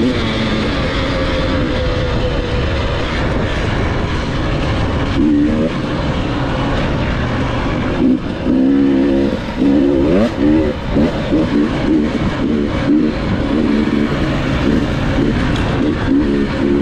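Enduro dirt bike engine running under way, revving up and down repeatedly, with quick rises and falls in pitch from about eight seconds in.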